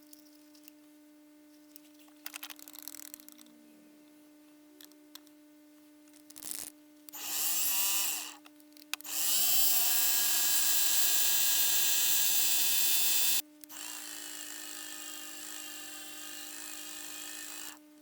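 Milling machine spindle drilling holes in a small metal engine part: a short run-up and wind-down, then a loud steady high whine that cuts off suddenly, followed by a quieter steady run that stops near the end, over a constant low machine hum.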